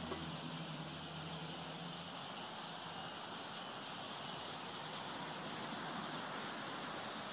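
Dense, continuous chatter of a large flock of common starlings gathering to roost, heard as an even hiss-like chorus. A low hum fades out about two seconds in.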